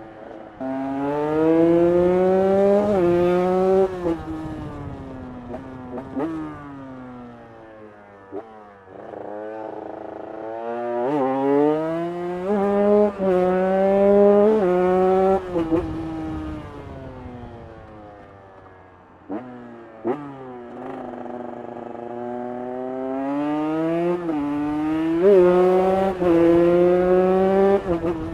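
Carbureted KTM 150 EXC two-stroke single with an aftermarket ProCircuit header pipe, revving hard as the bike accelerates up through the gears, the pitch climbing and dropping back at each upshift. It does this three times, falling off in pitch and loudness between runs as the bike slows.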